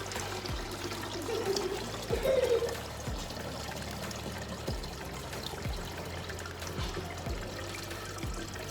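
Water pouring and trickling, with irregular low plops about once a second and a brief louder spell about two seconds in.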